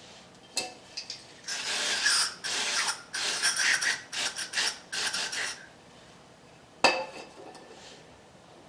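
A run of uneven scraping or rubbing strokes on small metal brake-caliper parts, worked by hand, for about four seconds. About a second later comes a single sharp knock, like a part being set down on a hard surface.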